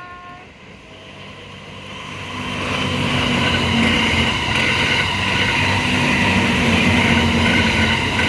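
Train passing close by on the rails: the rumble builds over about two seconds, then holds loud and steady.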